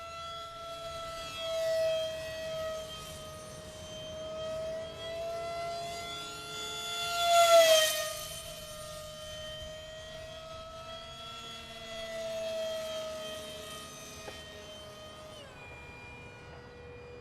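Small electric ducted-fan motor of a 50mm F-86 Sabre RC jet whining steadily in flight, growing louder as the jet makes a close pass about halfway through. The pitch drops near the end.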